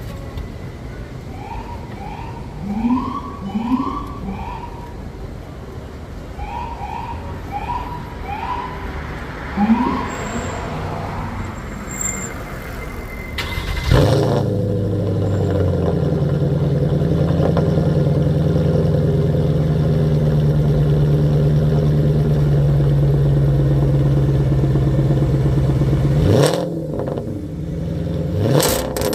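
Straight-piped Mercedes M273 V8 exhaust: the engine idles with a few quick throttle blips, then is revved and held at a steady high pitch for about twelve seconds. It drops back, with a couple of sharp revs near the end.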